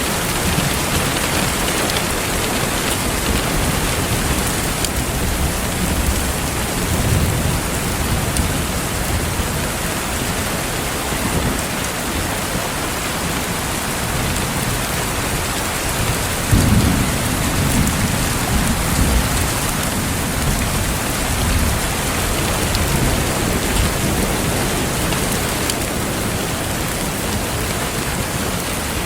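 Steady rain falling, an even hiss of many drops, with low rolls of distant thunder: a small one about a quarter of the way in and a louder rumble a little past the middle that swells and then fades over a few seconds.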